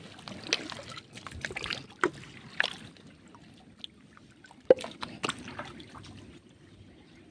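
Small splashes and drips of water with scattered light clicks, a sharper splash about two-thirds of the way through.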